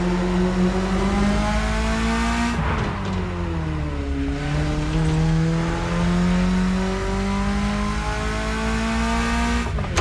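BMW E30 engine pulling under acceleration, its pitch climbing steadily. About two and a half seconds in it lets off and the pitch falls for a couple of seconds, then it climbs again under throttle until a drop near the end.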